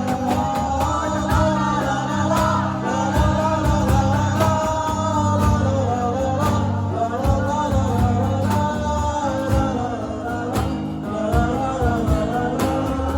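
A singer's voice carrying a wavering melody over guitar accompaniment, with steady strumming.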